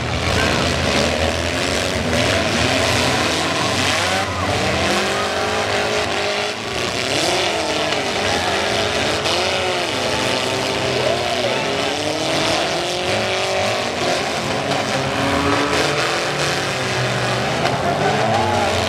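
Several four-cylinder demolition derby cars revving hard at once, their engine notes rising and falling as they accelerate, reverse and ram, over the noise of a large crowd.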